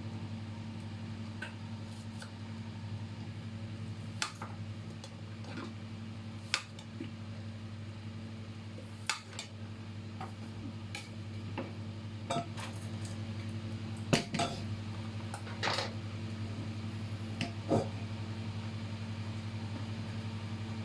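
Kitchen utensils and dishes clinking and tapping now and then, with a few sharper knocks about two-thirds of the way through, over a steady low hum.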